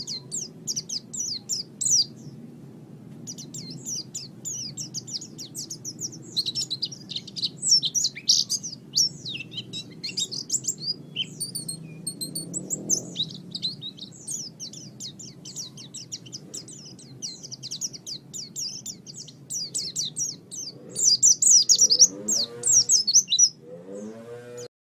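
White-eye (pleci) singing a rapid, continuous song of high chirps, with a short pause about two seconds in. A steady low hum runs under it, and a lower pitched sound comes in near the end.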